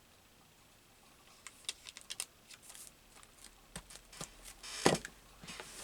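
Paper being handled on a work table: light rustling and a scatter of small taps and clicks, with one sharper tap about five seconds in.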